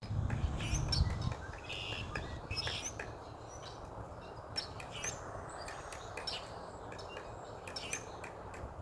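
Pileated woodpecker pecking into a cedar trunk: irregular sharp knocks, several a second at times, with small birds chirping. A low rumble fills the first second and a half.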